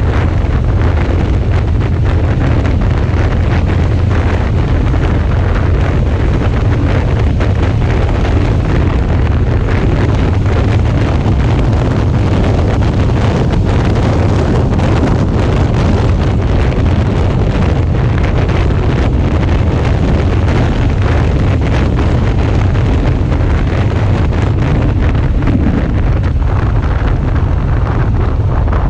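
Steady heavy wind buffeting on the camera microphone of a Suzuki V-Strom 650 at riding speed, a low rumbling rush with the motorcycle's running noise underneath.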